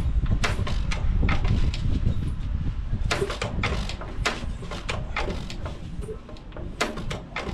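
1 3/4 hp Hercules Economy hit-and-miss engine running. Sharp exhaust pops come at uneven gaps, sometimes in pairs, over a low rumble.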